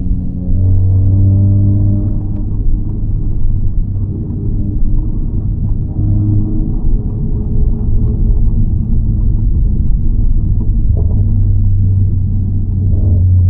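Honda Civic FL5 Type R's turbocharged 2.0-litre four-cylinder engine and HKS Legamax exhaust with aftermarket downpipe, heard from inside the cabin while driving: a strong low drone whose pitch rises and falls with engine speed.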